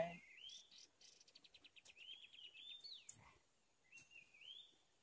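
Faint birdsong in near silence: a short whistled phrase that swoops up and down, repeated several times, with a quick trill a little over a second in.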